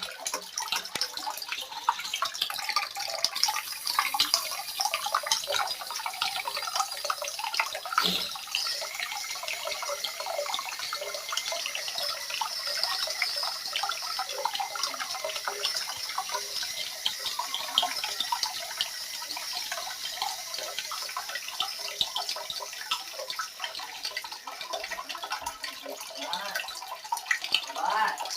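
Water running and splashing steadily, a dense patter of small drips and splashes.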